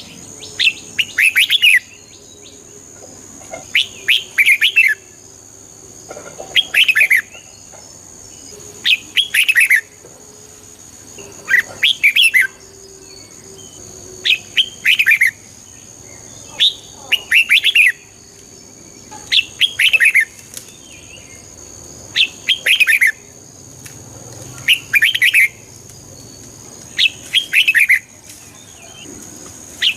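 Red-whiskered bulbul singing: short, clear phrases of a few quick notes, repeated about every two and a half seconds.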